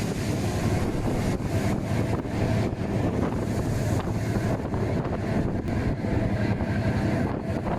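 Strong wind buffeting the microphone over rough sea, with a steady low hum underneath.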